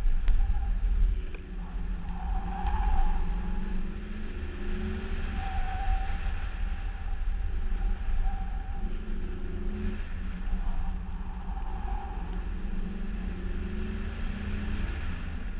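Car engine under hard driving, its note rising and falling again and again as the throttle comes on and off, over a heavy low rumble of wind and road noise on a microphone mounted outside on the fender.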